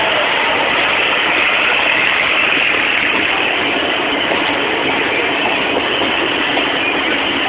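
Steady running noise of a moving passenger train: wheels on rail and rushing air, heard from a coach window or doorway, while a train on the next track passes.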